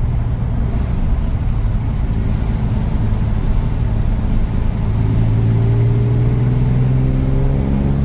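Jaguar XJ6's straight-six engine running at a steady pitch, then its revs rising gently over the last three seconds.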